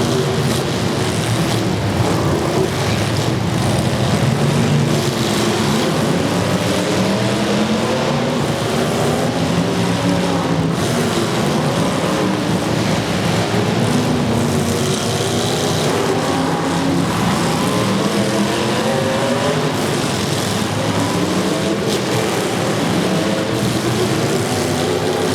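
Several demolition derby car engines running and revving at once, their pitches rising and falling throughout.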